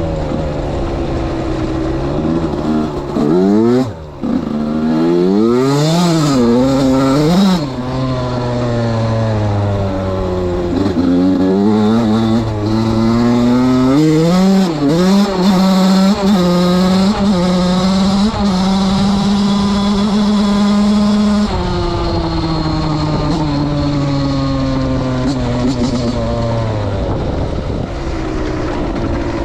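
Suzuki RM85 two-stroke single-cylinder motocross engine being ridden, revving up and down with several quick rises and falls in pitch early on, then held at high revs for several seconds before the revs drop suddenly, and drop again near the end.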